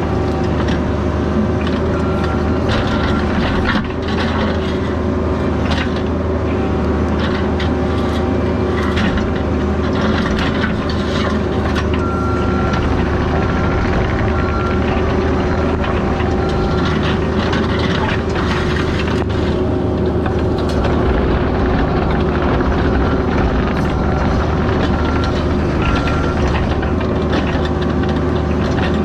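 CAT 304 mini excavator's diesel engine running steadily, with scattered knocks and a beeping alarm that sounds in short runs every few seconds.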